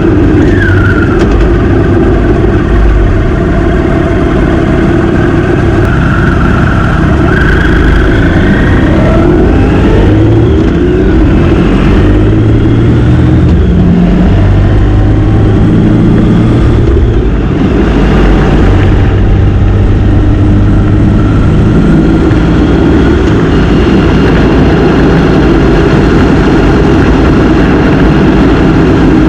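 Motorcycle engine running on the road, its pitch rising and falling several times as the revs change, over a loud low rumble.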